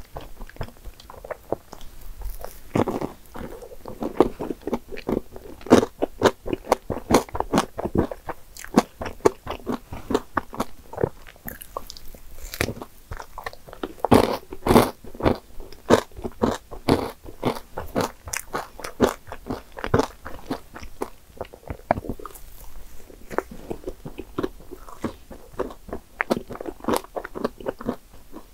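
Close-miked eating: biting into and chewing soufflé pancake with whipped cream and caramelized nuts, the nuts giving a steady run of sharp crunches along with soft, wet mouth sounds.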